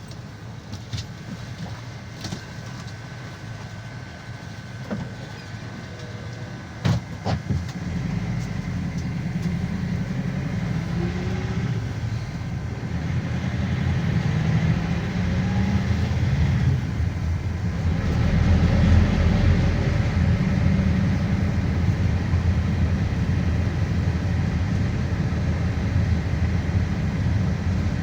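GAZelle Next minibus heard from inside the cabin: quiet running with a few clicks and a thin steady tone, a sharp knock about seven seconds in, then the engine and road rumble build as the bus pulls away and gathers speed, with a brief dip partway through before it grows louder again.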